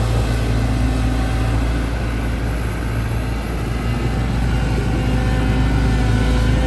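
Caterpillar 313GC excavator's diesel engine running steadily, a deep, even drone.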